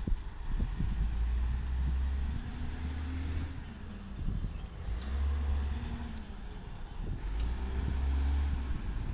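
Diesel engine of a 1995 WhiteGMC automated side-loader garbage truck, a Volvo VED7, revving up and dropping back three times, with a deep rumble that rises and falls in pitch each time.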